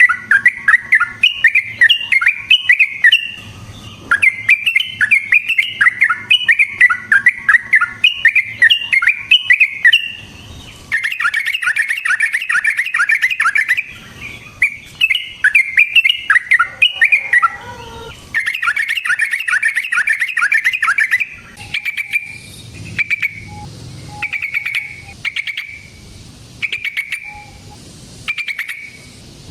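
Yellow-vented bulbul singing long, rapid, bubbly chattering phrases. From about two-thirds of the way through, these give way to shorter separate calls roughly once a second.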